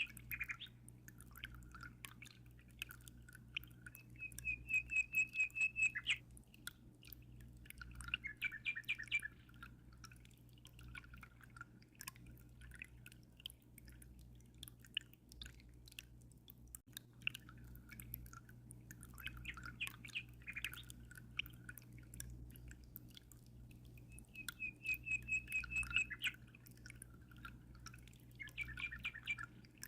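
Songbirds singing in short chirping phrases, twice breaking into a rapid trill of quick even notes. Beneath them, water trickles with small drips over a constant low hum.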